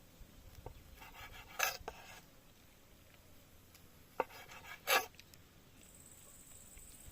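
Cooking utensils being handled: a short scrape about one and a half seconds in, then a sharp click and another short scrape a little after four seconds.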